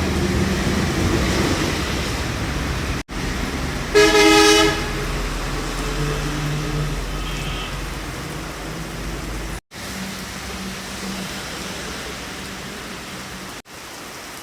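Heavy rain pouring down amid road traffic, a steady hiss with a low rumble of vehicles. A vehicle horn honks loudly for under a second about four seconds in. The sound cuts out for an instant several times.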